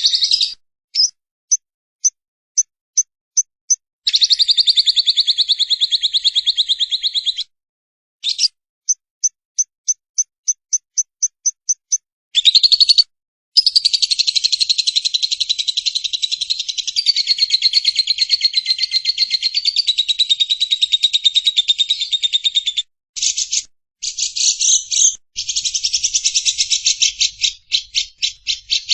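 Lovebird chattering in its long 'ngekek' style: fast runs of high, shrill repeated notes lasting several seconds, the longest about ten seconds, broken by short pauses and slower series of separate chirps.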